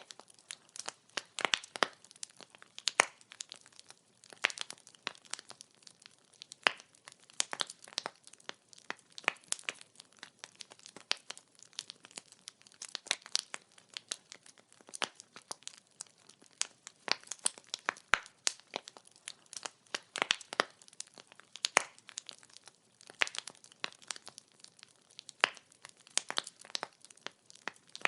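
Wood fire burning, its firewood crackling and popping in irregular sharp snaps, several a second, over a faint hiss of flame.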